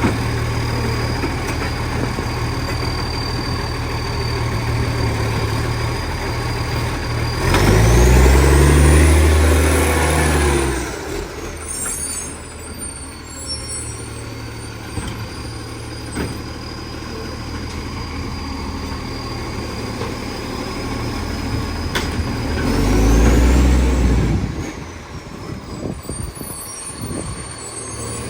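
Garbage truck's diesel engine idling, revving up twice for a few seconds each, about 8 s in and again near 23 s, with a high whine that rises and falls with the revs. The truck has a large exhaust leak.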